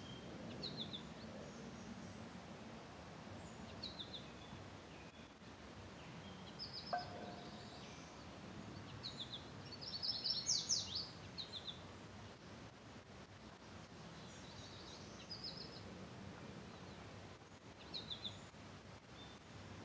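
Small birds chirping in short, high repeated phrases over a steady outdoor background hiss, with a busier, louder flurry of chirps about ten seconds in.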